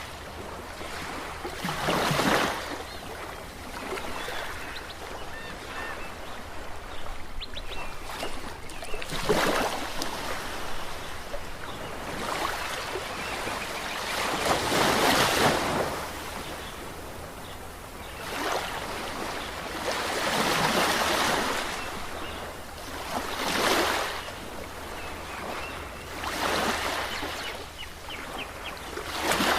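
Ocean waves breaking on a shore, each wave swelling in and washing out every few seconds over a steady rush of surf.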